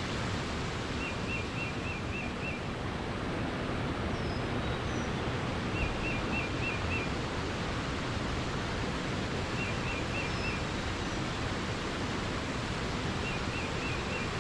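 Steady rushing water with birdsong over it: one bird repeats a short phrase of five or six quick notes about every four seconds, and a few faint high chirps come in between.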